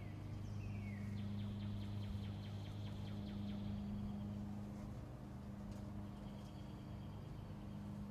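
Outdoor ambience: birds chirping, with two short falling chirps about a second in and a rapid trill that runs for a few seconds, over a steady low hum.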